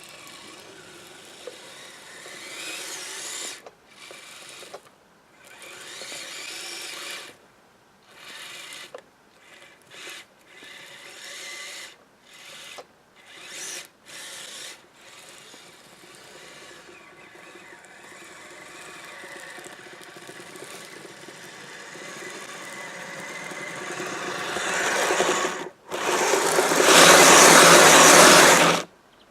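Kyosho Blizzard SR electric RC tracked snow vehicle: the electric motor and drivetrain whine in short throttle bursts with brief stops, then run longer and build to a loud full-throttle stretch near the end that cuts off suddenly.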